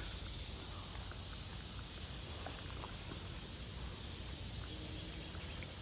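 Steady, faint outdoor background hiss with a few faint ticks and taps.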